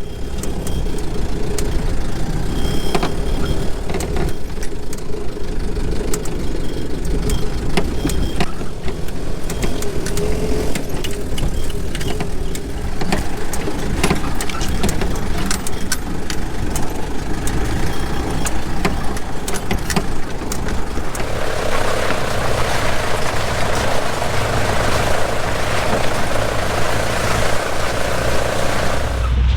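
A vehicle engine running steadily with rattles and clicks. About twenty-one seconds in, a louder rushing noise builds over it.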